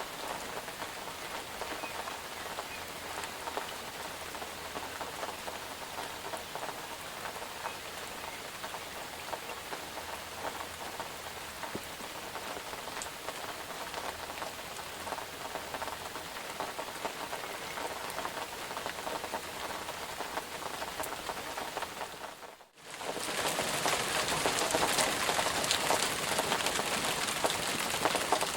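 Steady rain falling. About three-quarters of the way through it briefly cuts out, then comes back louder and brighter.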